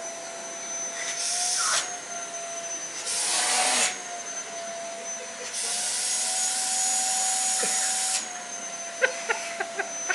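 Vacuum cleaner motor running with a steady whine, with three loud rushes of air, the last about two and a half seconds long, where the motor's pitch shifts slightly. A few sharp clicks near the end.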